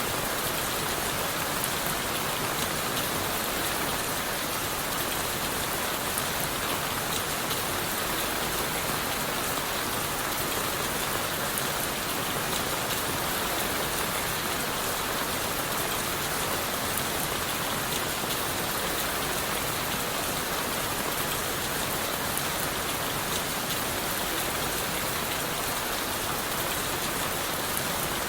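Steady rain falling on forest leaves and wood: an even hiss with fine patter of individual drops.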